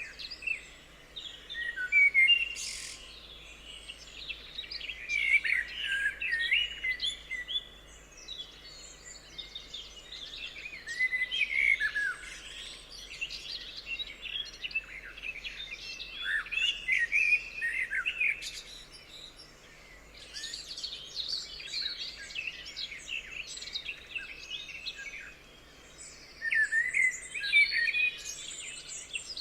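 Several songbirds singing and chirping together, overlapping quick chirps and sweeping whistles that come in bursts every few seconds.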